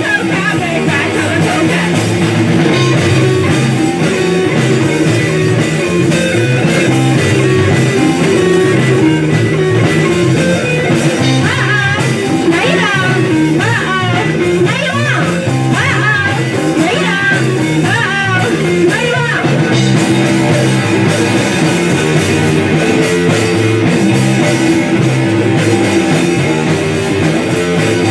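A rock band playing guitar-led music at a steady level, with a run of bending, sliding high notes in the middle.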